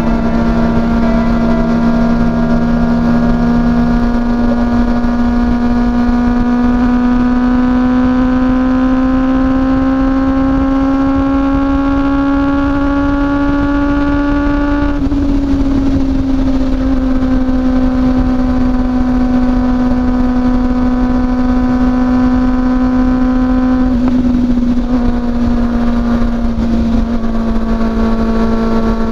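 Honda CB400SF's inline-four engine through a WR'S slip-on muffler, running steadily at highway speed. Its note climbs slowly for about fifteen seconds, drops a little, then holds steady, with another small dip later on.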